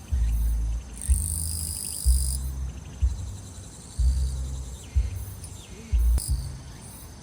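Crickets and other grass insects trilling steadily in high-pitched song. Under them, bass-heavy music from somewhere nearby thumps out a beat about once a second.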